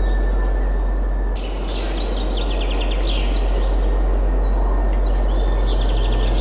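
Songbirds singing: a rapid trill of repeated high notes about a second and a half in, then scattered chirps and short whistles, over a steady rush of wind with a deep low rumble.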